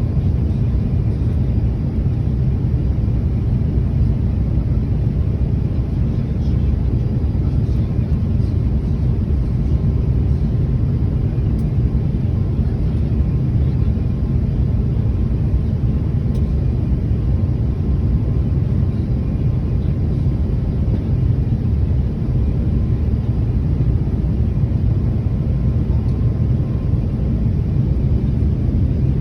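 Airliner cabin noise on the landing approach: the jet engines and rushing air make a steady, unchanging low rumble heard from inside the passenger cabin.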